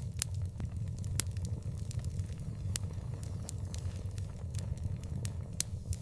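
Wood fire crackling: sharp pops and snaps come at irregular moments over a steady low rumble of the burning.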